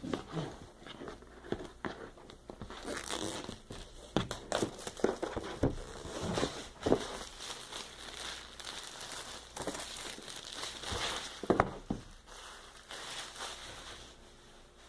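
Plastic wrapping being torn and pulled off a cardboard box, crinkling and crackling in irregular bursts that die down near the end.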